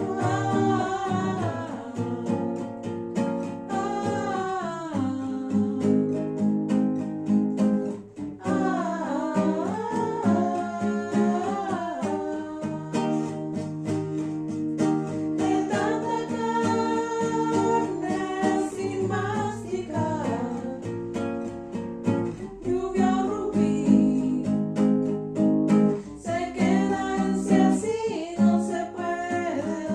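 A voice singing to a strummed acoustic guitar or ukulele.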